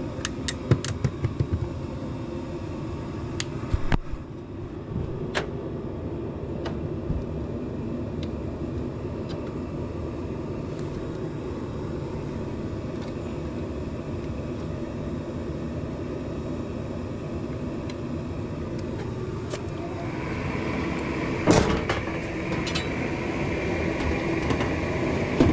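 Steady furnace hum and rumble, with scattered sharp clicks and knocks in the first few seconds. About twenty seconds in, a higher steady sound joins the hum as the unit starts up, and a sharp knock follows shortly after.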